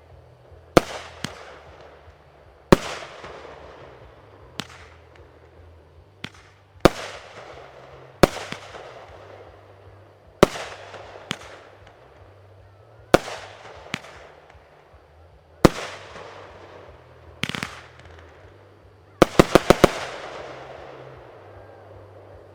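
Fireworks shells bursting overhead: single sharp bangs about every one to two seconds, each trailing off in a fading rumble, then a quick run of about five bangs near the end.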